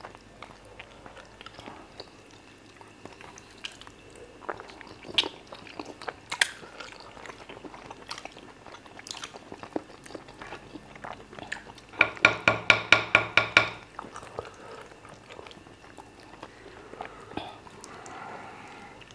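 Close-miked chewing and swallowing of fufu with peanut soup and chicken, eaten by hand, with soft wet mouth sounds and scattered light clicks. About twelve seconds in, a short run of quick pulsed vocal sounds, about five a second, lasts some two seconds.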